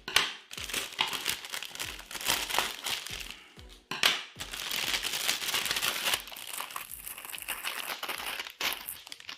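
Plastic packaging of a military field ration crinkling and crackling as it is handled and opened, with irregular sharp crackles.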